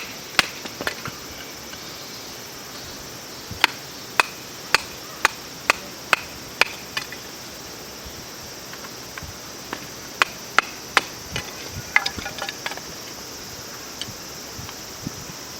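Sharp knocks of firewood being chopped or split, in runs of about two strikes a second, over a steady high drone of insects.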